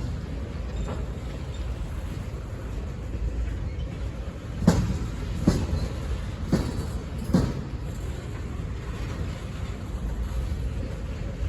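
Norfolk Southern freight train rolling past with a steady low rumble. Around the middle come a few sharp clacks, in pairs, as the wheels cross rail joints.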